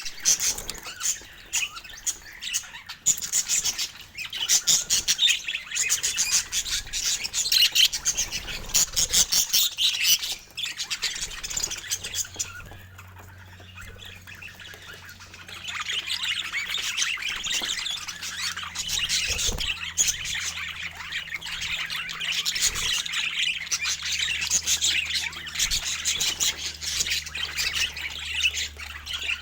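Pet budgerigars chattering and chirping in fast, busy strings, with a lull about halfway through before the chatter picks up again. A faint steady low hum runs underneath in the second half.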